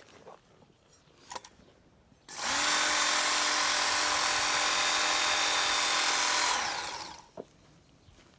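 A handheld electric power tool spins up about two seconds in, runs steadily for about four seconds, then winds down. A few light knocks come before it.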